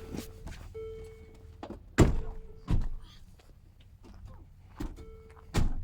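Car doors of a 2003 Land Rover Discovery 2 slamming shut: a heavy thunk about two seconds in, another just after, and a third near the end. Between them the vehicle's warning chime sounds in long, steady beeps, typical of a door left open or the key left in.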